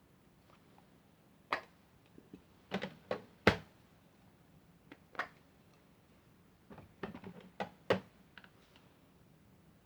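Sharp plastic clicks and knocks from handling a toy washing machine, coming in two irregular clusters, with the loudest knock about three and a half seconds in.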